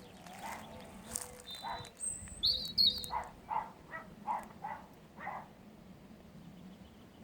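A dog barking over and over, about two barks a second for most of the first five seconds, then stopping. A small bird gives a short high chirp and warble about two seconds in.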